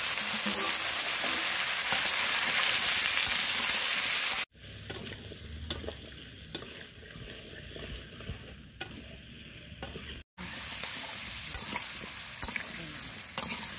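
Cut potato and papaya pieces frying in hot mustard oil in a pan, sizzling loudly while being stirred. About four and a half seconds in, the sizzle drops to a much quieter stretch with a few light knocks, and about ten seconds in it comes back, softer than at first.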